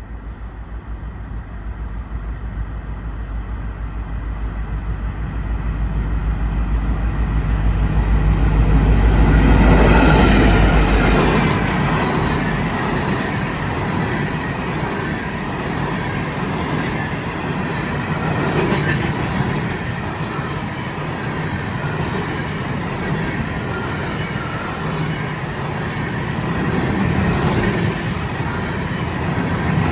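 Fast freight train passing. The locomotive's deep rumble builds to its loudest about ten seconds in, then gives way to the steady rush and clatter of the freight cars rolling by at speed.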